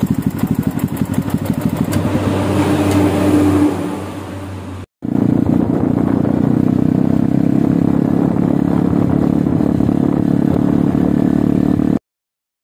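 Yamaha Vixion motorcycle engine running through a Norifumi 'roket 4' aftermarket exhaust, pulsing at idle. It is blipped up once about two seconds in and drops back. After a brief break it runs with a steady beat until it cuts off near the end.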